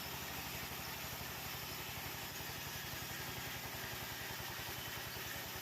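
An engine running steadily at an even speed, with a rapid, regular pulse.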